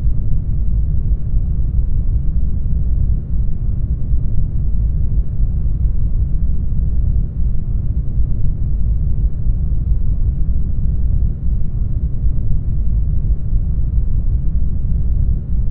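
Steady brown noise: a deep, even rumbling hiss, strongest in the bass and thinning toward the treble, with a brief slight dip in level about every four seconds.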